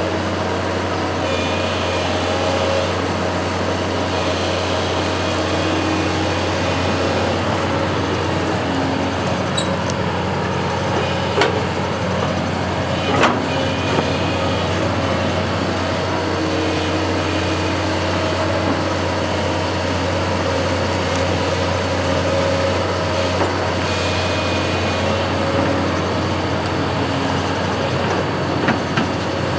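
A construction machine's engine running steadily at a constant pitch, with a deep hum and a couple of short knocks partway through.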